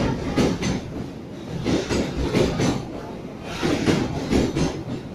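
Container freight wagons rolling past, their wheels clattering over rail joints in a repeating clickety-clack, a group of knocks about every second and a half over a steady rumble.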